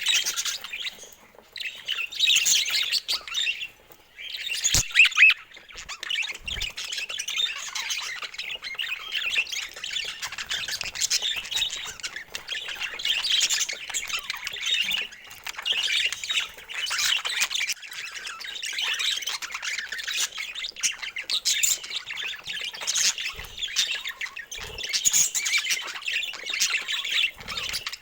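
Budgerigars chattering, chirping and squawking without a break, several birds at once. A sharp click sounds about five seconds in.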